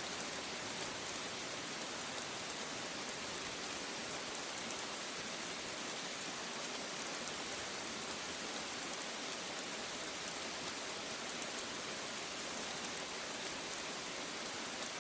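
Steady rain falling, an even hiss with fine scattered drop ticks and no thunder.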